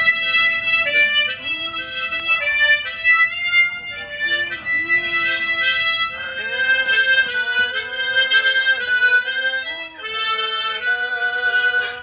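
Harmonica played by hand, a melody with several reeds sounding together as chords, breaking off briefly about ten seconds in.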